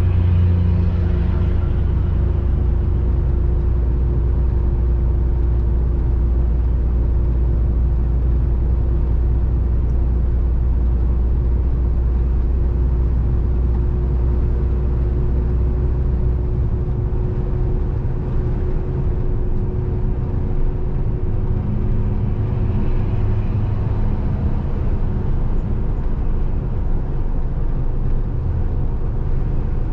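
Scania 450 truck's diesel engine and road noise heard from inside the cab, a steady drone while driving; the deepest part of the drone eases off a little over halfway through.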